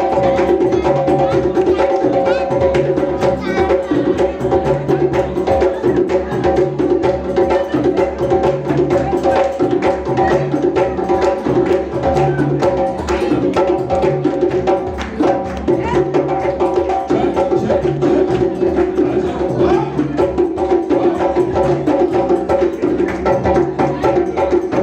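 Live band music: held chords over a fast, steady clicking percussion beat and a repeating bass line.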